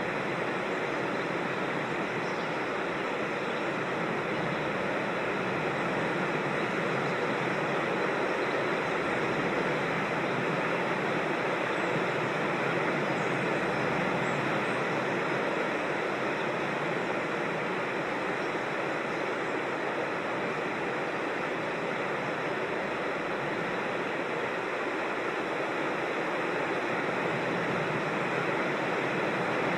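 Creek water rushing, a steady, even rush with no breaks.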